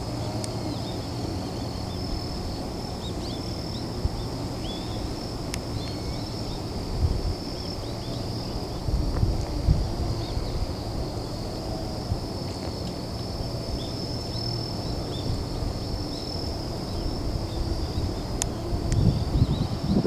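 Outdoor ambience dominated by a steady, high continuous insect chorus, with scattered faint short chirps and an uneven low rumble.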